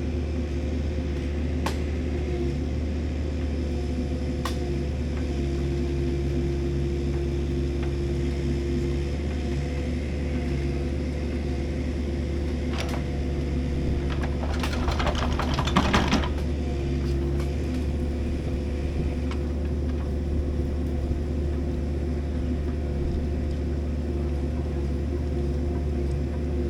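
Engine running steadily at a constant speed, with a few light clicks and a short rattling burst about halfway through.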